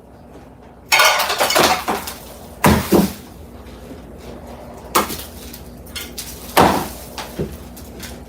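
Hard objects clattering and knocking: a long rattling clatter about a second in, then a few separate sharp knocks.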